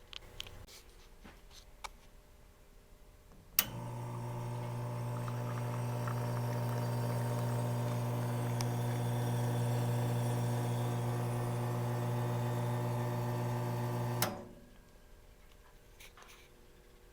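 Two-group commercial espresso machine's pump, starting with a click a few seconds in, humming steadily for about ten seconds, then cutting off with a click, as during an automatic shot or dose.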